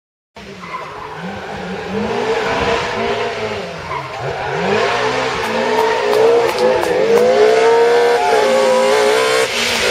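Historic rally car's engine on a special stage, revving hard and dropping back over and over as it changes gear, growing louder as the car approaches. The sound cuts in abruptly about half a second in.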